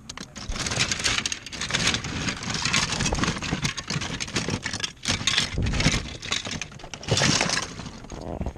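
Hard plastic toys clattering and rattling irregularly as hands rummage through a tote of vintage action figures and vehicles.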